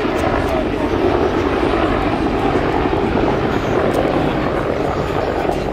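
AH-1W SuperCobra attack helicopter flying by, a loud, steady noise of its two-bladed main rotor and twin turbine engines.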